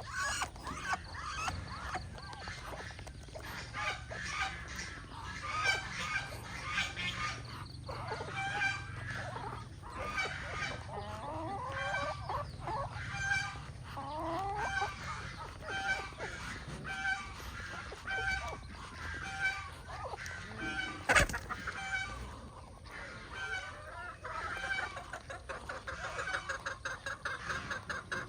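A hen clucking steadily with short repeated calls, among chicks peeping, with a quicker run of clucks near the end. A single sharp knock about three quarters of the way through.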